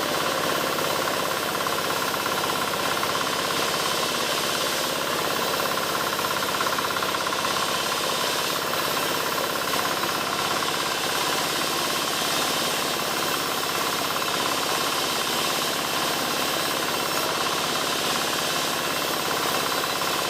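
Power saw running steadily as it cuts albasia wood into roof battens: a continuous, unchanging mechanical din.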